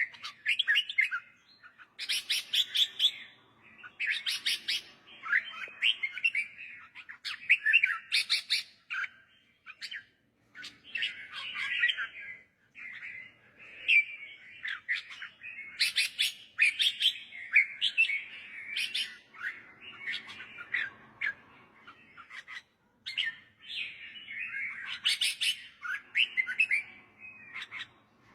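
Red-whiskered bulbul singing: short, bright warbled phrases repeated one after another with brief pauses between them, some with sharp clicking notes.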